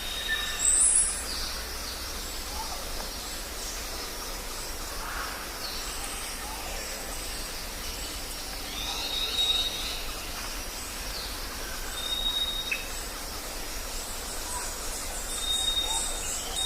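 Jungle ambience: a steady background hiss with scattered bird calls, among them a short high whistle repeated a few times and a quick high sweep about a second in.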